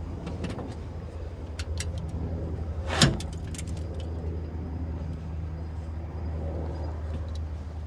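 A car engine running steadily with a low drone, with scattered metallic clicks and one loud sharp knock about three seconds in.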